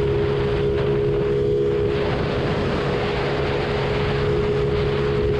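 Yamaha Fino scooter engine running at a steady cruising speed on the move, with wind noise buffeting the microphone.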